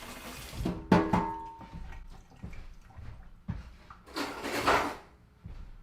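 Kitchen utensils clattering as a whisk is fetched. About a second in there is a metal clink that rings on briefly, and a little past four seconds a short rushing, rustling noise.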